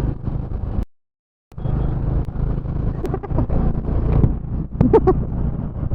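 Motorcycle riding noise: the engine runs with road and wind rumble, cutting out completely for about half a second near the start. Near the end a brief pitched sound rises above it.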